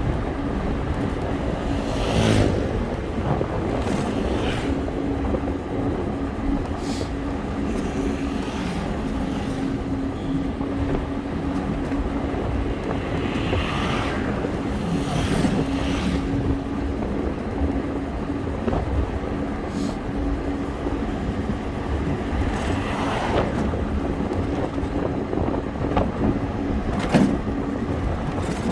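Wind and road noise of a bike ride through traffic, with a steady low hum and short sharp clicks every few seconds.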